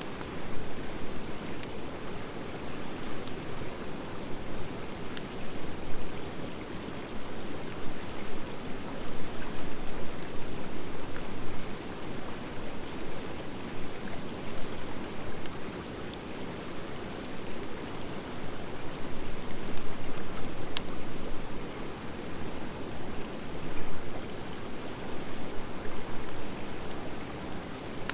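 Wood fire of driftwood mixed with dry hardwood burning, with a steady low rushing and an occasional sharp pop or crackle from the hardwood every few seconds.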